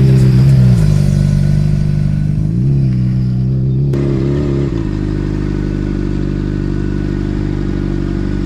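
Honda CBR600 sport bike's inline-four engine running as it is ridden, its note steady with a few shifts in pitch in the first five seconds.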